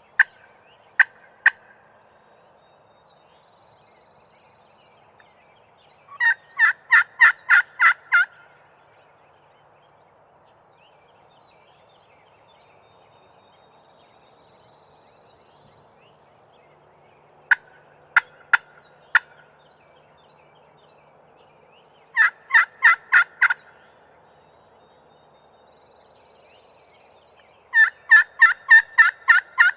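Hen-turkey clucks and yelps, the kind a hunter makes on a turkey call to bring a gobbler in: a few sharp single clucks near the start and again midway, then three loud runs of six to ten evenly spaced yelps.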